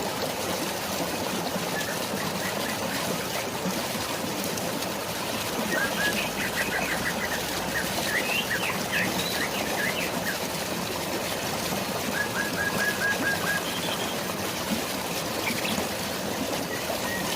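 Steady rush of flowing water with birds chirping over it: a burst of quick chirps from about six to ten seconds in, and a short trill of rapidly repeated notes around twelve seconds.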